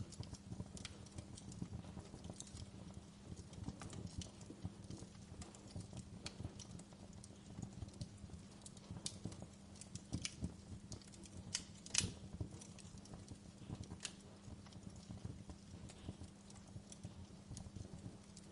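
Wood fire crackling, with frequent irregular pops and snaps and one louder pop about twelve seconds in, over a low steady hum.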